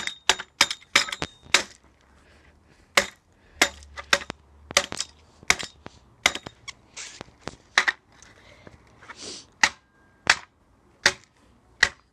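A series of about twenty sharp knocks at irregular intervals, with a couple of brief scraping rustles in between.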